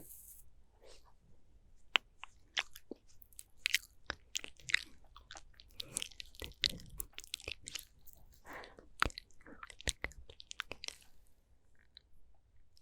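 Close-miked ASMR mouth sounds: quick, irregular wet clicks and smacks of lips and tongue.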